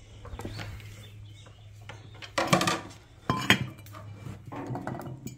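Metal parts clinking and clanking as they are handled, with two loud metallic knocks a little under a second apart near the middle, over a steady low hum.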